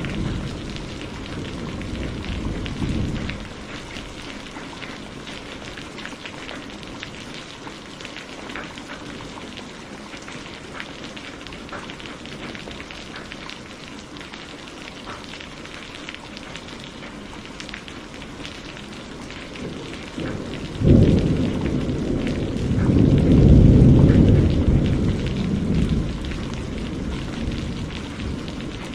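Steady rain falling, with thunder: a low rumble fading away in the first few seconds, then a sharp thunderclap about 21 seconds in, followed by a long rolling rumble that swells and slowly dies away.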